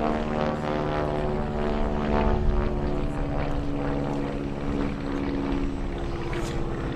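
Propeller airplane's engines running steadily, a drone with several engine tones drifting slowly in pitch.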